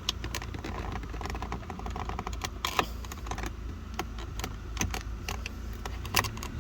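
Irregular plastic clicks and ticks of a car door trim panel and its retaining clip being pried and worked loose with a trim tool, over a low steady hum.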